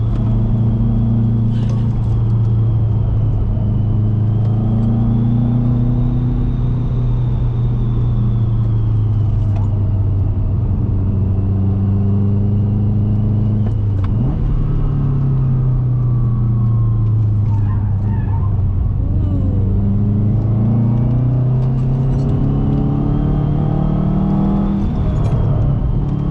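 2006 Subaru WRX's turbocharged flat-four engine pulling hard through a run of corners. Its note climbs and drops again and again as the driver revs up and lifts off, over a thin, steady high whine.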